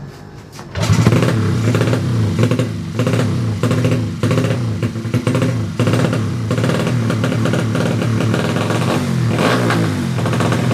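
Bored-up 155cc Yamaha Jupiter single-cylinder four-stroke engine revving, starting about a second in and blipped up and down over and over in quick succession.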